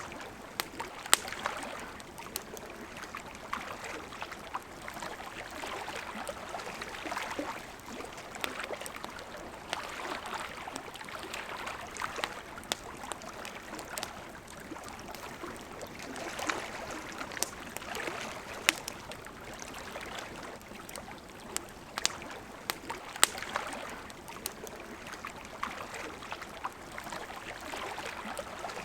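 A river flowing steadily with a gently surging rush, while a campfire crackles over it with sharp pops scattered every second or few.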